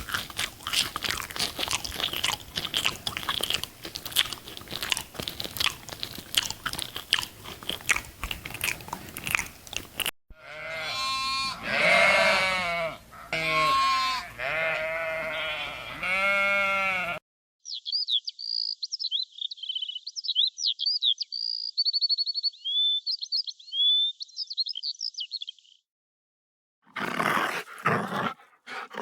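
A string of separate animal sound clips: about ten seconds of rapid crunching like chewing, then a run of wavering, pitched bleats for about seven seconds, then quick high chirps and whistles like bird song for about eight seconds, and a short rough burst near the end.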